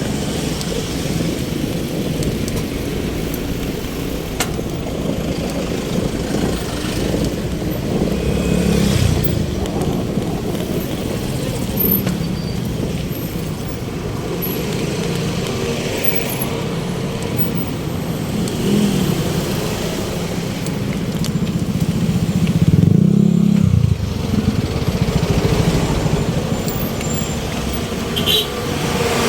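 Road traffic: vehicle engines running steadily, with one vehicle growing louder about three-quarters of the way through, as if passing close.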